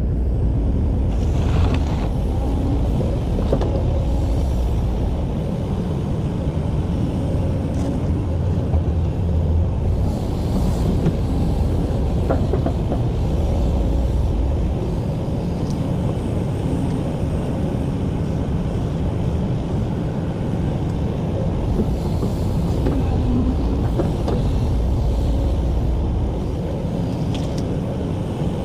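Excavator's heavy diesel engine running steadily, a continuous low rumble, with a few faint knocks scattered through.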